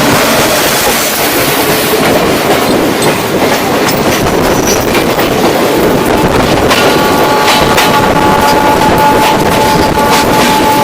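Express train running fast on the rails, a loud steady rush with clicking wheels. About two-thirds of the way through, a train horn starts sounding a long, steady multi-tone blast.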